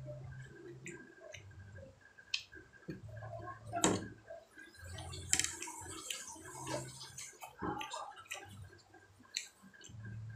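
Close-miked chewing and lip-smacking of grilled skewered street food: irregular wet clicks and smacks of the mouth, with short low hums between them and a couple of louder, sharper clicks near the middle.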